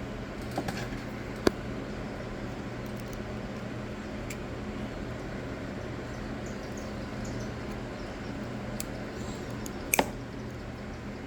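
A few sharp clicks and taps of small parts being handled while the throttle linkage is worked off the carburetor of a Stihl KM91R trimmer engine, the loudest a double click near the end. A steady low hum runs underneath.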